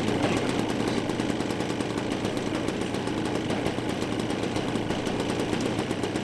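Engines of a quarter-scale RC Beech-18 model airplane running steadily at a constant pitch and level.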